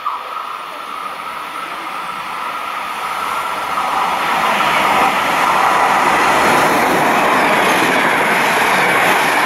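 FS Class E.464 electric locomotive (E464.218) hauling Intercity coaches as it approaches and passes at speed. The noise builds over the first few seconds as the locomotive draws level, then holds steady and loud as the coaches run by.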